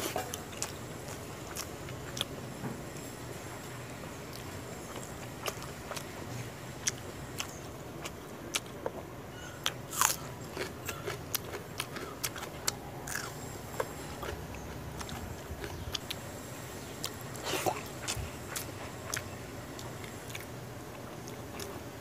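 A person eating close to the microphone: chewing and biting through a meal of water-soaked rice with fried fish and raw onion, with many short sharp crunches and mouth clicks. A louder crunch comes about ten seconds in and a cluster of them at around seventeen seconds.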